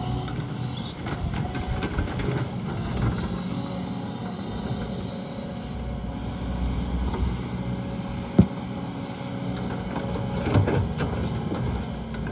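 Can-Am side-by-side utility vehicle driving over rough farm ground, its engine running steadily under a rattling body, with a single sharp knock about eight seconds in.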